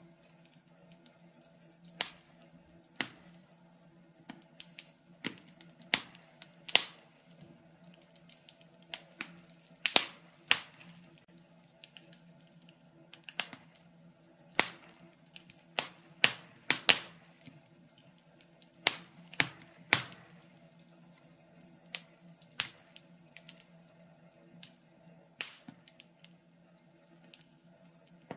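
Wood fire crackling in a fireplace: irregular sharp pops and snaps, roughly one or two a second, some much louder than others, over a faint steady hum.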